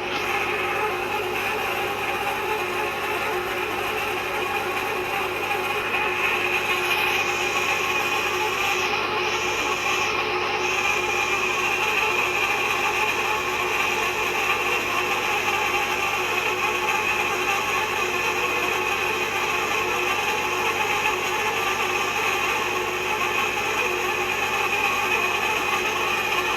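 Manual hot-tapping machine cutting into an ammonia pipe: a steady, unbroken mechanical cutting sound with several constant tones.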